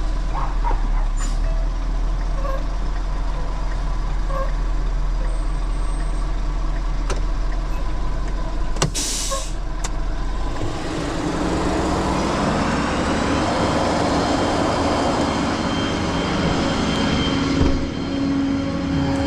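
Tow truck engine running steadily, with a short hiss of air about nine seconds in. Then the engine note rises and grows busier, as when the truck is revved to work its loading gear.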